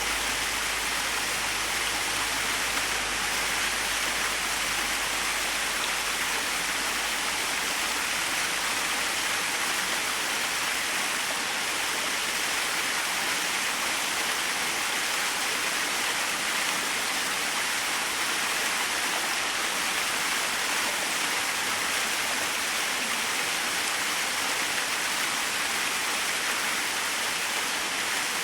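Small waterfall splashing steadily, a constant even rush of falling water.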